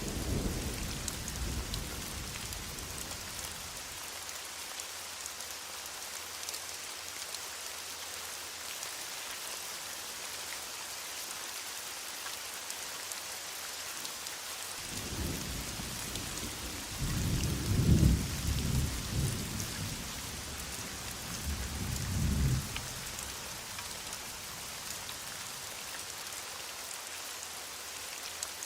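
Heavy rain falling in a steady hiss, with rolls of thunder: one fading at the start and a longer rumble in the middle that peaks in several low swells before dying away.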